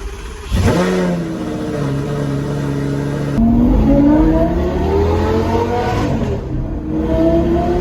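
Lamborghini Gallardo Superleggera V10 with an aftermarket exhaust, running loud just after start-up. It holds a steady note, then revs up with the pitch climbing for a couple of seconds, drops back, and climbs again near the end.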